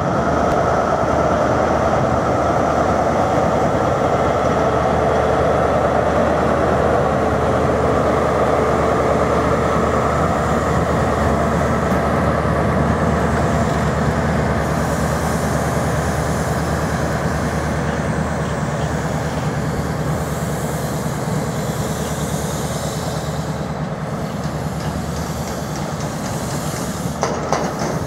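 A train running close by: a loud, steady rumble with several held tones. A higher hiss joins about halfway through, and the sound eases slightly near the end.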